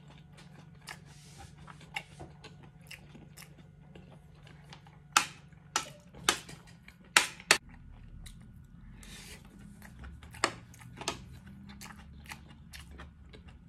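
A person chewing food: a run of short wet mouth clicks and smacks. A cluster of louder smacks comes about halfway through, and two more near the end.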